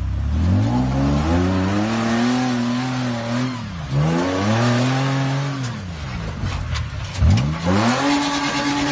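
A caged rock-crawling Jeep's engine revs hard, climbing in pitch, holding, then dropping off, three times over as it crawls up a steep rock face. Several sharp knocks come near the end, with the loudest moment about seven seconds in.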